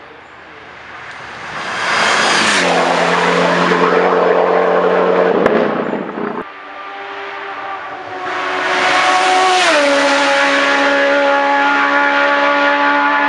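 Hillclimb race cars at full throttle, two in turn, passing at speed. Each engine note drops in pitch as the car goes by.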